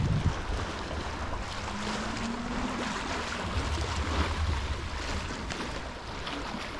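Wind rushing over the microphone of a moving e-bike, a steady noisy rush with a low rumble. A faint hum rises and fades about two seconds in.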